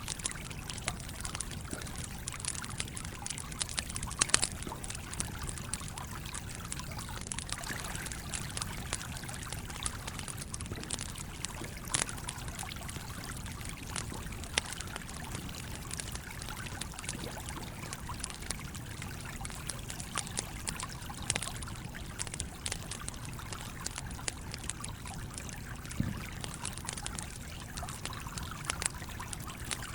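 A campfire crackling with frequent irregular pops, the sharpest about four seconds and twelve seconds in, over the steady flow of a stream.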